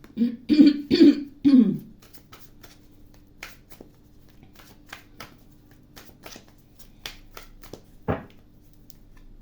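A woman clears her throat and coughs several times. Then tarot cards are shuffled and handled, making a string of sharp, irregular clicks, with one heavier thud about eight seconds in.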